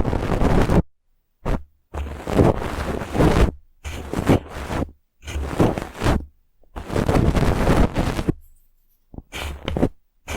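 Brush bristles scratching and rubbing close against the microphone in about seven separate strokes, each lasting about one to two seconds, with a low rumble under each stroke and dead silence between strokes.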